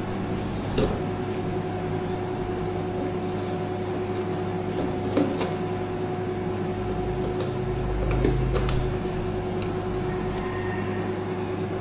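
An electric appliance switches on and runs with a steady hum, with a few light clicks and knocks over it.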